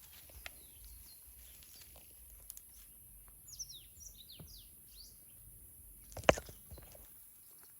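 Outdoor ambience with a bird giving a quick run of short, high, falling chirps midway. A little after that comes a single sharp knock, the loudest sound.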